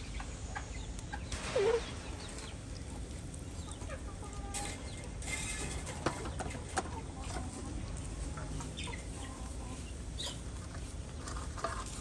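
Chickens clucking now and then, short scattered calls over a steady low background noise, with a few sharp clicks.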